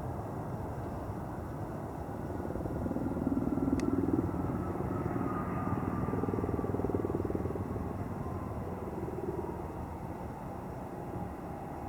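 Jet airliner passing: a steady engine rumble with a whine that falls slowly in pitch as it goes by, loudest around the middle.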